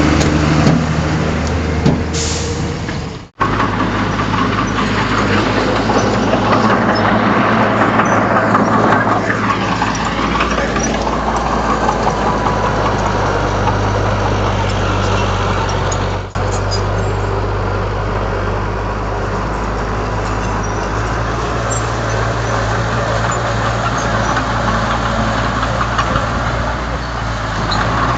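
Heavy diesel construction machinery, a bulldozer at work, running steadily with a low engine hum and mechanical noise. The sound breaks off abruptly about three seconds in and dips briefly again around sixteen seconds.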